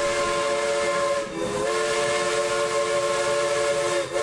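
A train-style whistle sounding a steady chord of several notes over a hiss. It breaks briefly a little over a second in and again at the end.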